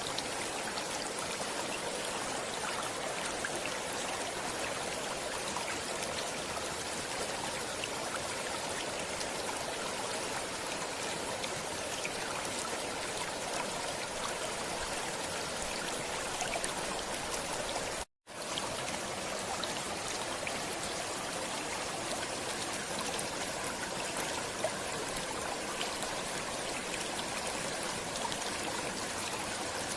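Steady rushing and babbling of a flowing stream. It drops out to silence for a split second once, about two-thirds of the way through.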